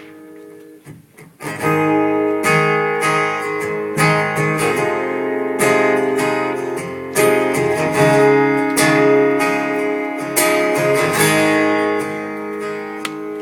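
Acoustic guitar strumming chords as a song's intro, starting about a second and a half in.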